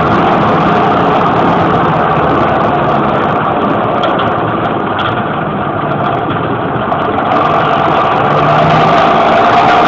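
John Deere 6820 tractor's six-cylinder diesel engine running loud with no muffler, an open exhaust note. It eases off a little in the middle and builds again near the end.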